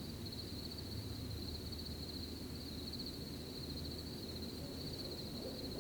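Crickets chirping steadily in a continuous high trill over a low outdoor rumble of wind and rustling. An owl starts hooting right at the end.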